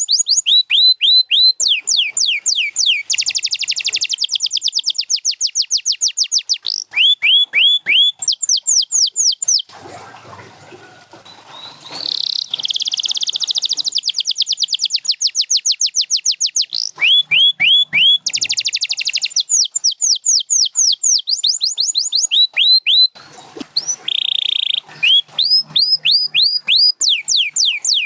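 Domestic canary singing: long rolls of one note repeated very fast, many times a second, each note sweeping down, the bird switching from one roll to the next every few seconds. The song breaks off for about two seconds a third of the way in, leaving a faint rustle, then resumes.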